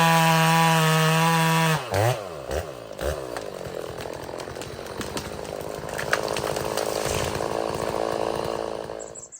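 Chainsaw running at full throttle, then let off about two seconds in, its pitch dropping and wavering as it falls back to a rough idle. The idle runs on until it cuts off abruptly near the end.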